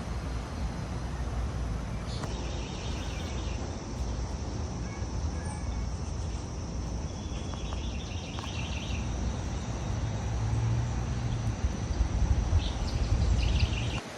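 Outdoor ambience with a steady low wind rumble on the microphone, several short runs of bird chirps, and a steady high insect drone.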